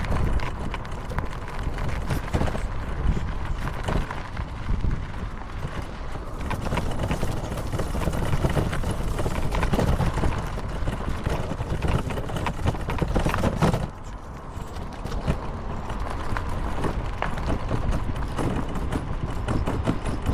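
Rumble and rattle of a small vehicle riding along a rough path, with wind buffeting the microphone; it quietens briefly about 14 seconds in.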